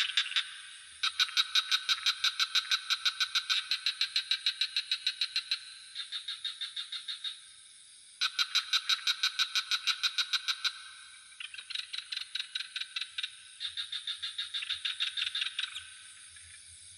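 Frogs calling in rapid pulsed trills, about seven pulses a second, in bouts of two to four seconds that start and stop one after another, some louder and some fainter. A steady high-pitched insect drone runs underneath.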